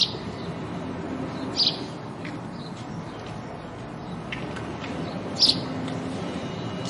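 House sparrows chirping: short, bright single chirps a few seconds apart, with fainter chirps between them, over a steady low background rumble.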